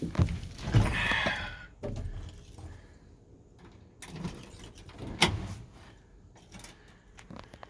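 Keys jangling and a few sharp clunks and clicks: the loudest near the start, a rattle about a second in, and a sharp click about five seconds in. No engine is running yet.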